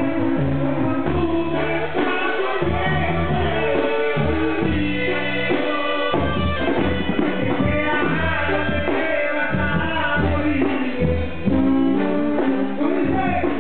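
Brass band music in the Mexican banda style: trumpets and trombones playing a melody over a pulsing bass line.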